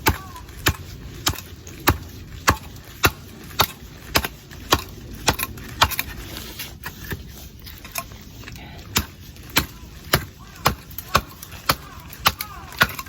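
Repeated sharp strikes at an even pace, a little under two a second, each a short crack.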